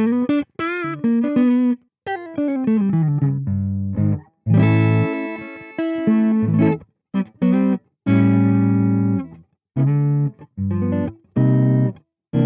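Electric guitar with humbucker pickups played through a Peace Hill FX TR tube preamp pedal. It opens with a single-note lead line with bends and vibrato and a falling run, then moves to ringing chords cut off abruptly, with short silent stops between them.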